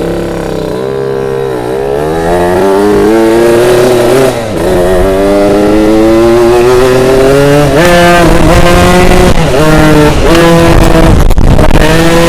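Two-stroke motorcycle engine accelerating hard, its pitch climbing repeatedly as it is run up through the gears, with brief drops at the shifts about four and eight seconds in. Loud throughout.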